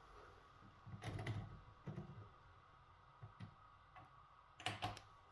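Washing machine faintly humming, with a scattered handful of light clicks and knocks: a cluster about a second in, a few single ones, and two louder knocks near the end.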